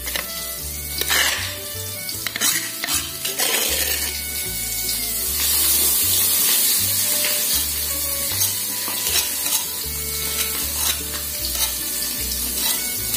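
Ground spice paste sizzling as it is sautéed in a wok, with a metal spatula scraping and knocking against the pan. The sizzle gets louder about five seconds in.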